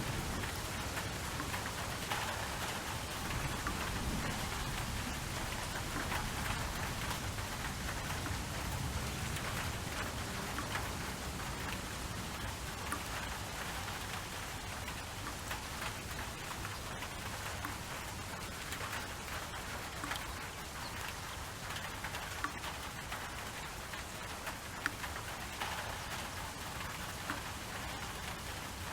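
Steady rain falling on a hard surface, with fine pattering drops; a low rumble of distant thunder dies away over the first several seconds.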